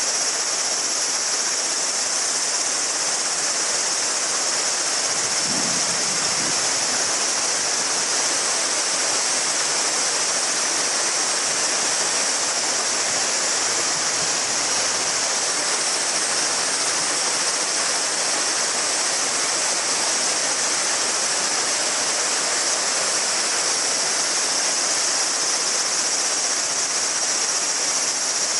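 A river babbling steadily, with a dense chorus of cicadas making a steady high-pitched drone above the water.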